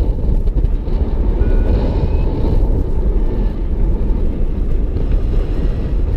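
Wind rushing over the microphone in paragliding flight, a loud, steady low rumble, with a few faint short beeps above it.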